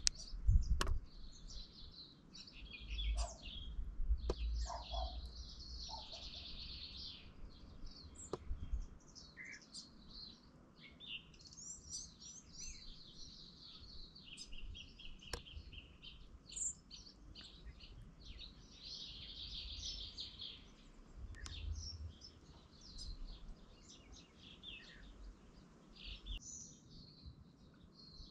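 Several birds singing, with chirps and rapid trills overlapping throughout. A low rumble comes and goes underneath, and there are a few sharp clicks in the first second.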